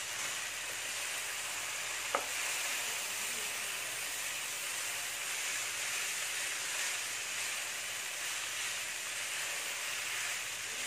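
Wheat noodles and vegetables sizzling steadily in a pan over a gas flame while they are mixed and tossed by hand. One short, sharp clink about two seconds in.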